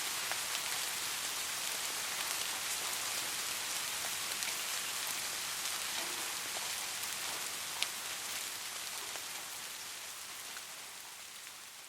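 Soft rain falling steadily, with individual drops ticking close by and one sharper drop about eight seconds in. The sound fades down over the last few seconds.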